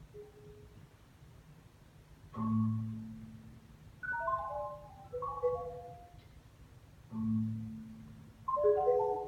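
Solo marimba playing a quiet, sparse passage. Deep low notes are struck about two and a half and seven seconds in, each followed by quick runs of higher notes stepping downward and ringing over one another, with pauses between the phrases.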